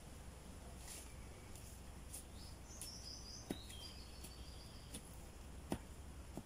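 Quiet outdoor ambience: a small bird gives a short, high twittering call about three seconds in, with a few sharp clicks scattered through.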